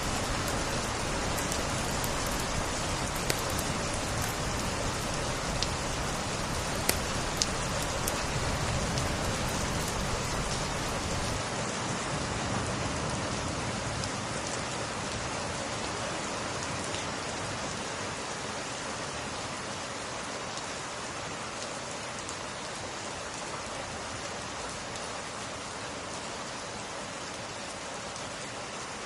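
Steady rain falling on a surface, an even hiss with a few sharp ticks in the first few seconds, slowly growing quieter.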